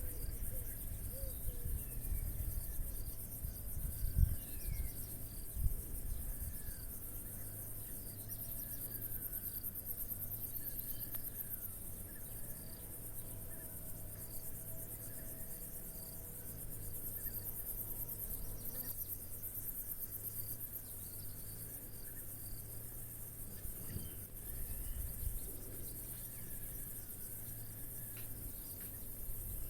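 Crickets chirring steadily in a continuous high-pitched, finely pulsing chorus, with short bird calls now and then. Two brief thumps stand out about four and six seconds in.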